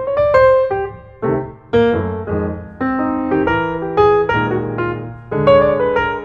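Background piano music: notes struck one after another over sustained chords.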